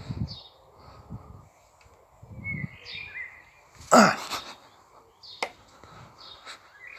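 Birds chirping, with a few soft low thuds and one loud sharp noise about four seconds in, then a click.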